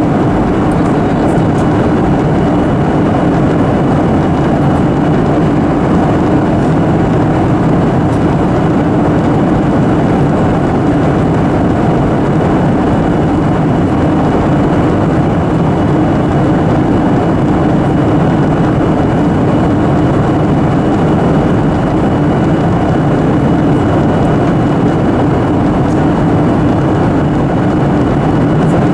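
Steady, unchanging roar of engine and airflow noise inside the cabin of a Boeing 737-800 airliner, with a faint steady high tone above it.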